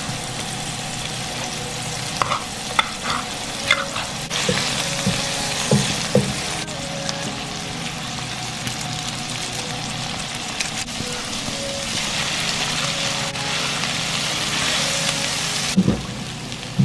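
Onions, vegetables and noodles sizzling as they are stir-fried in a nonstick pan, with a spatula clicking against the pan now and then.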